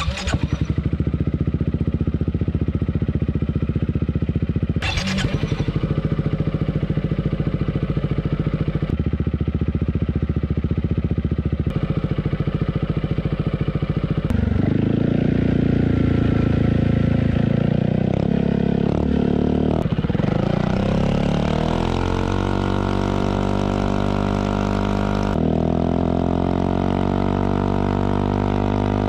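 Yamaha XMAX Connected's 250 cc single-cylinder engine running through a Villan MV1 aftermarket exhaust. It idles steadily for about half the time, then is blipped unevenly, and about two-thirds of the way in the revs rise and hold at a higher steady speed.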